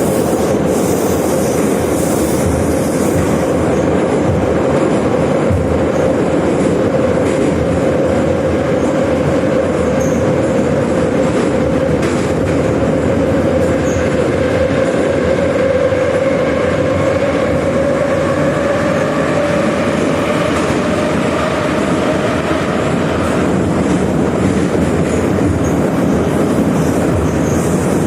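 81-717/714 'Nomernoy' metro train running at speed: steady rumble of wheels on rail with the whine of the traction motors. The whine rises slightly in pitch until about halfway, then eases a little, with higher overtones joining in the second half.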